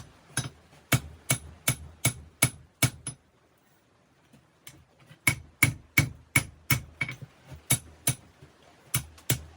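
Hammer blows on 5160 steel at the anvil during knife forging, about three strikes a second, each with a short metallic ring. The blows stop for about a second and a half partway through, then resume at the same pace.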